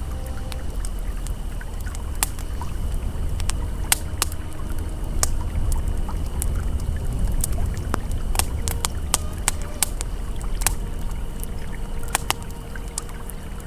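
A campfire crackling, with frequent sharp, irregular pops, over the steady low rush of a flowing river.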